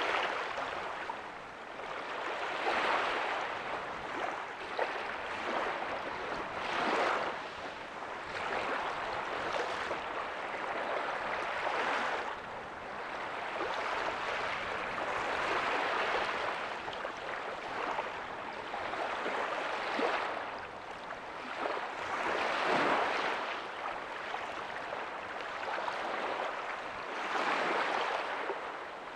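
Small ocean waves breaking softly and washing up the beach, a continuous rushing that swells and eases every few seconds.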